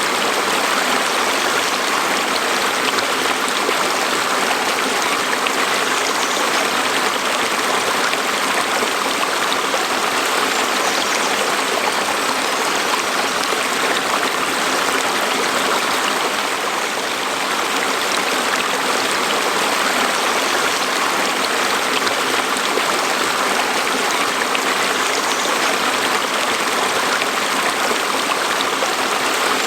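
Natural stream flowing over rocks: a steady, even rush and burble of water that does not change.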